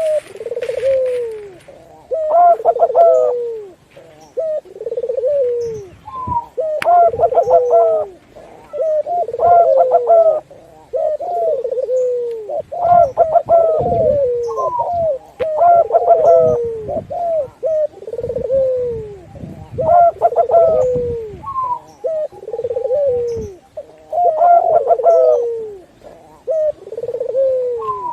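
Several doves cooing, their calls overlapping: repeated phrases of low coos, each falling in pitch, about every two seconds.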